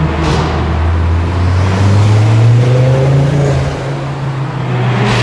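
Car engine revving up under acceleration in a road tunnel, heard from inside the cabin: its pitch rises over a couple of seconds, holds, then drops away. Two sharp pops, one shortly after the start and one at the end.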